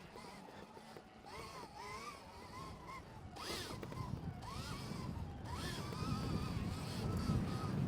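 Stark Varg electric dirt bike's motor whining, its pitch swooping up and down with the throttle several times, over a low rumble that grows louder in the second half.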